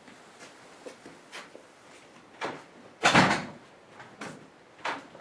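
A few knocks and thumps of things being handled and set down, the loudest a heavier thump about three seconds in.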